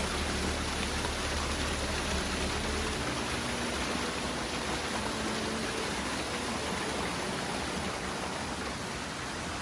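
Steady rush of falling water from a waterfall, an even hiss with a low rumble underneath that eases a few seconds in.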